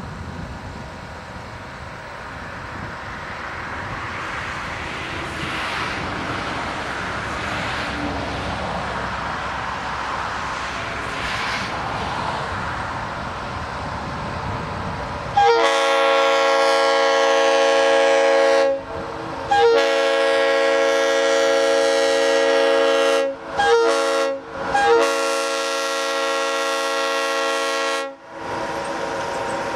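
Narrow-gauge diesel locomotive rumbling closer, then sounding its chime horn in two long blasts, a short one and a long one: the long-long-short-long grade-crossing signal.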